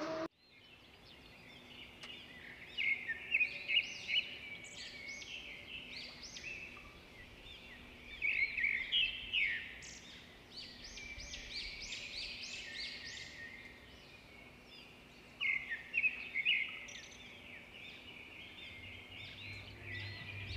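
Small birds calling: runs of short, high, quick notes that come in clusters every few seconds, over a faint steady hum.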